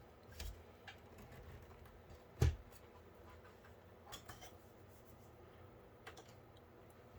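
Faint scattered clicks and taps from PC case parts being handled, with one sharper knock about two and a half seconds in.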